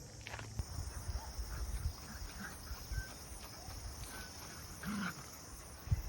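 Forest ambience: a few brief, thin bird chirps over a steady high hiss, with irregular low thumps and rumble underneath.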